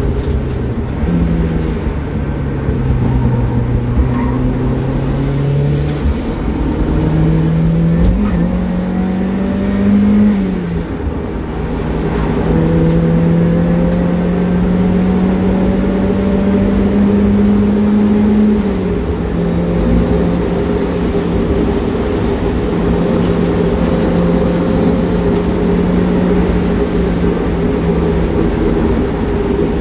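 Turbocharged Mazda MX-5's four-cylinder engine pulling hard under load, heard from inside the cabin, with tyre and road noise beneath. The engine note climbs slowly with revs and drops sharply about ten seconds in and again near nineteen seconds, as the car shifts gear or lifts off.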